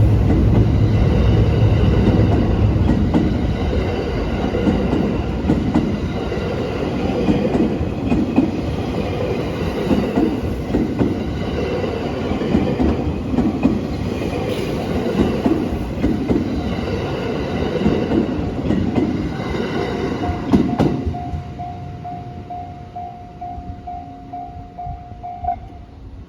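Thunderbird limited express electric train running over the level crossing, wheels clattering on the rail joints, then fading as it draws away about three-quarters of the way through. After it has passed, the crossing's warning bell rings in a rapid, even pulse.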